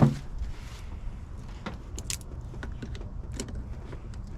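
Jumper cable clamps being handled: a sharp knock at the start, then scattered metallic clicks and taps over a steady low hum.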